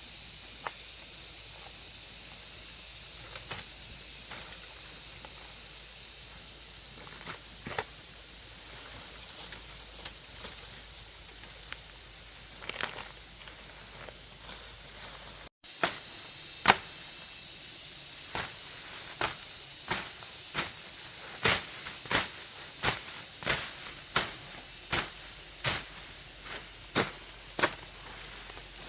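Steady high chirring of insects, with scattered light knocks. About halfway in, after a cut, sharp tool strikes begin, roughly one a second, like hammering during construction work.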